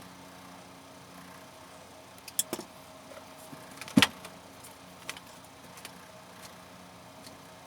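A few sharp clicks and knocks of small hard parts being handled, the loudest about four seconds in, over a faint steady hum.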